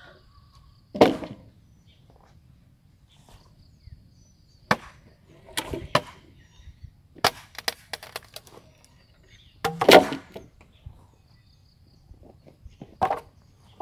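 Wood being chopped or hacked: irregular sharp strikes a few seconds apart, some in quick clusters, the loudest about a second in and about ten seconds in.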